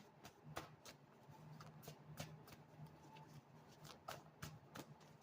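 Faint, irregular soft clicks and flicks of cards being handled and shuffled, over a low steady hum.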